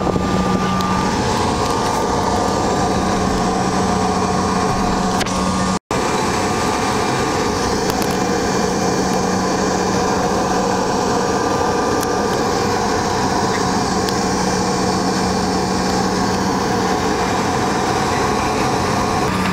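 Steady drone of a jet airliner heard from inside the cabin: engine and airflow noise with a constant hum, broken once by a split-second gap about six seconds in.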